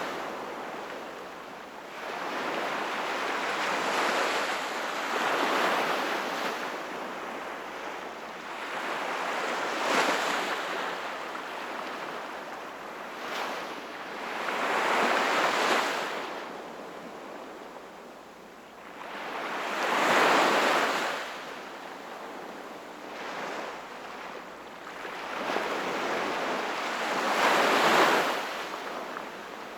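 Small sea waves washing onto the shore, the hiss swelling and ebbing with each wave every four to eight seconds, the biggest two near the middle and near the end.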